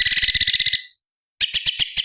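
Orange-bellied leafbird singing: a rapid, harsh chattering burst that stops about a second in, then a second burst starting about a second and a half in.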